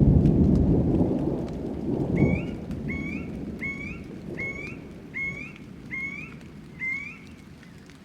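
Rolling thunder rumbling and fading away over the first couple of seconds. Then a bird calls seven times in a steady series, short upward-sweeping notes about one and a half per second.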